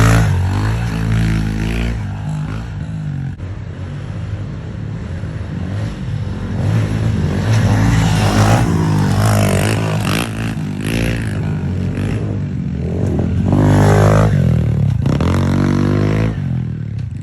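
Small single-cylinder 110cc pit bike engine revving hard and backing off over and over, its pitch climbing and dropping with each throttle burst.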